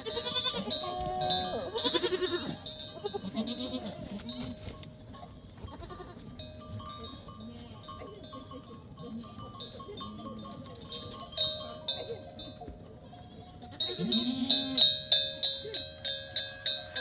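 A flock of sheep and goats bleating, with livestock bells clanking and ringing. The bells get louder and clank more steadily near the end.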